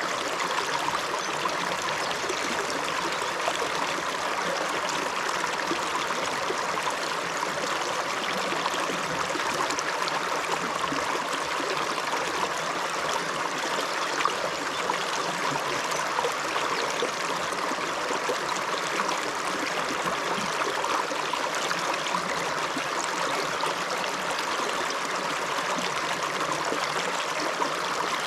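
Small upland river flowing over rocks: a steady rushing and babbling of running water, unchanging throughout.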